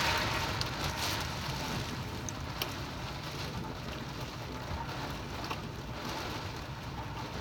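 Typhoon rain and wind: a steady hiss of rain, with gusts rumbling on the microphone.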